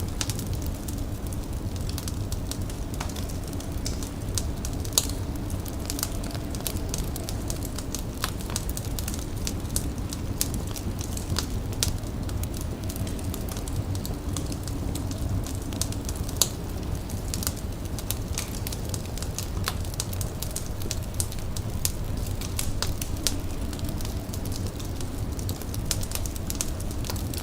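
An indoor fire crackling steadily, with many sharp, irregular pops and snaps over a low, even rumble of flame.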